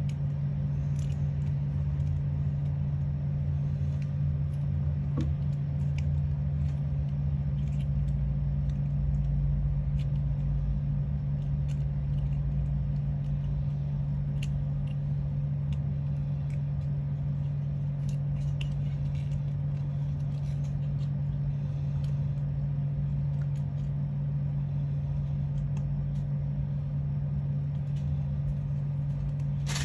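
Steady low hum with a rumble underneath, and scattered faint small clicks and taps.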